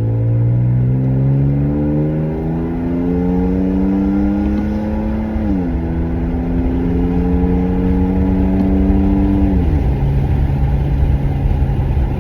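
Truck engine through a new MBRP exhaust, heard from inside the cab, accelerating hard. The revs climb steadily, drop at a gear change about five and a half seconds in, climb again and drop at a second upshift near the end, then hold steady.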